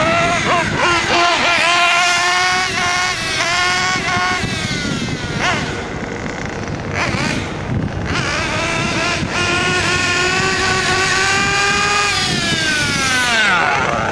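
Nitro glow engine of a 1/8-scale Kyosho Inferno MP9 TKI3 RC buggy running on its first tuning run after break-in. Its high-pitched whine rises and falls with the throttle, holds steady for a few seconds, then drops away near the end.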